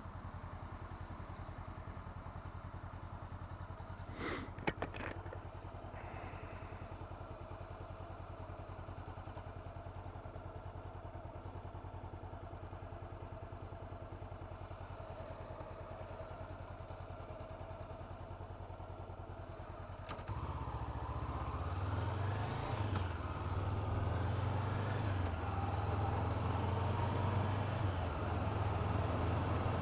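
2017 Honda CB500F's parallel-twin engine idling steadily, with a short click about four seconds in. About twenty seconds in the engine is throttled up and gets louder, its pitch rising and falling as the bike gets under way, with wind noise.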